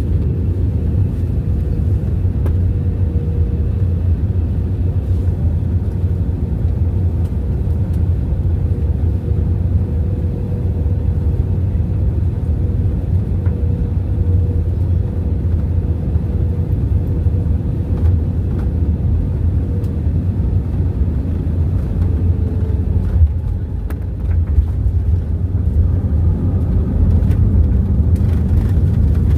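Steady low rumble of a passenger airliner's engines and airflow, heard from inside the cabin during descent. A faint steady hum under the rumble fades out about two-thirds of the way through, and the sound briefly drops a little quieter.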